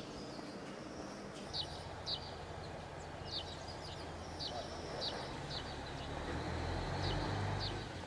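A bird calling outdoors in short, high, descending chirps, repeated roughly once or twice a second, over a steady low rumble that grows louder near the end.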